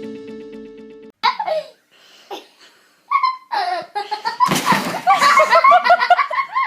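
Music fading out, then a few short voice-like sounds, a loud noisy burst about four and a half seconds in, and a person laughing in quick repeated bursts near the end.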